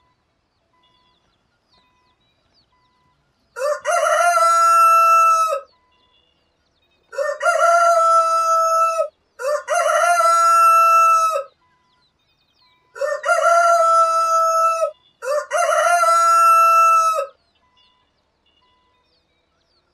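Rooster crowing five times. Each crow lasts about two seconds, with a short opening and then a long held note. The crows come singly at first, then in two close pairs.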